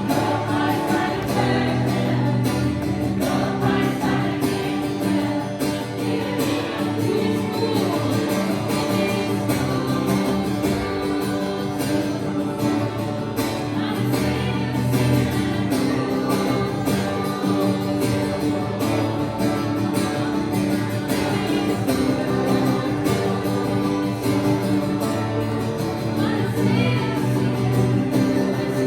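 Live worship music: a congregation and worship leaders singing together over strummed acoustic guitar and sustained chords.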